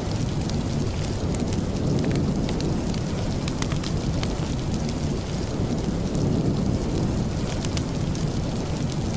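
Steady rain with a deep, even rumble underneath, scattered with many brief sharp ticks.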